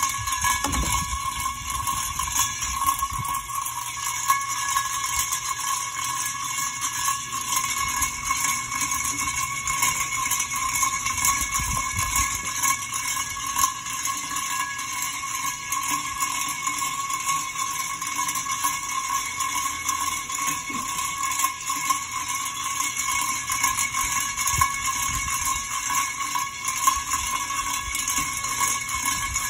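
Alaska ceiling fan running, with a steady high metallic ringing squeak over a faint hum. The owner puts the squeak down to a loose screw somewhere in the housing.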